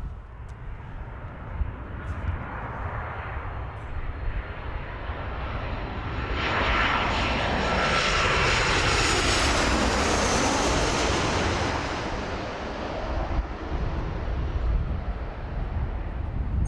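Airliner passing low overhead on its landing approach: engine noise swells over a few seconds and peaks with a high whine that falls in pitch as it goes over, then fades away.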